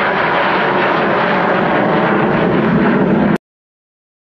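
Loud, steady aircraft engine noise, a dense rush with a low hum that grows stronger toward the end. It cuts off abruptly a little over three seconds in.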